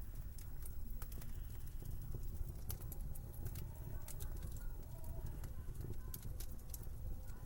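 Wood fire crackling in a fireplace: irregular sharp pops and snaps over a low steady rumble, with a faint wavering whistle in the middle.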